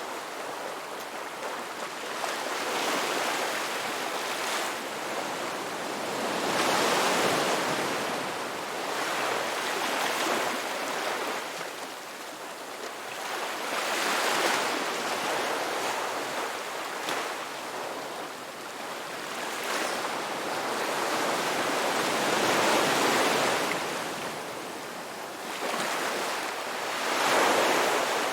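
Ocean surf: waves breaking and washing in, a steady rushing hiss that swells and fades every four to five seconds.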